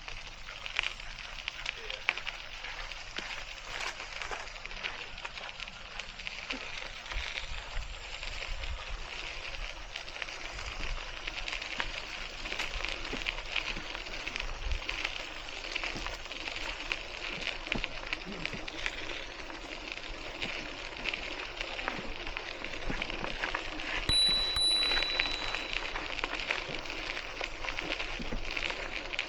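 Continuous crackling, gritty rolling noise from a Hiboy C1 e-bike riding along a park path, with a few low wind thumps. A brief high steady tone sounds for about a second near the end.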